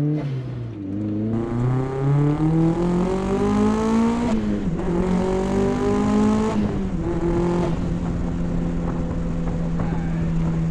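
Turbocharged Mazda Miata four-cylinder under full-throttle acceleration, geared through its 3.9 rear end: revs climb through a gear, fall at a shift about four seconds in, climb again and fall at a second shift about six and a half seconds in, then hold steady at cruise.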